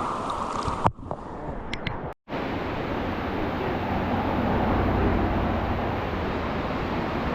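Steady rush of whitewater river rapids, with a brief dropout about two seconds in.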